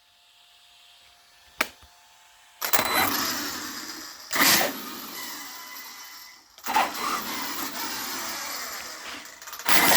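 Arrma Mojave EXB RC truck's brushless motor and drivetrain spun up in three short throttle bursts, each winding down after a sharp start. The differential is slipping: one wheel grips while the other makes an odd noise, which the owner places on the right side.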